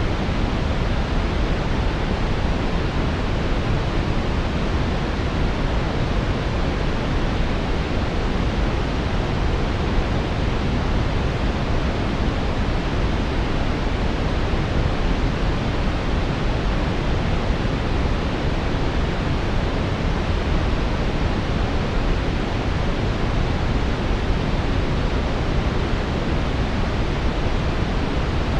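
Steady brown noise: a smooth, deep, even hiss with most of its weight in the low end, unchanging throughout.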